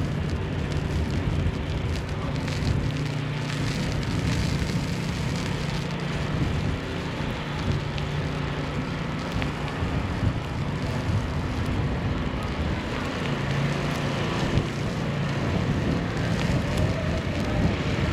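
City street ambience in a snowstorm: an even crackling patter of falling snow over a steady low hum.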